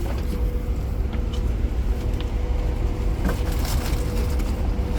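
Scania K410IB coach's engine running with a steady low rumble and a faint steady hum, heard inside the passenger cabin, with a few light clicks.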